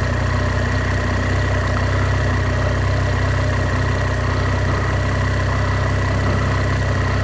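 BMW R1200 GS boxer-twin engine running steadily at low revs: an even, low engine note with no revving, and a faint steady high tone alongside.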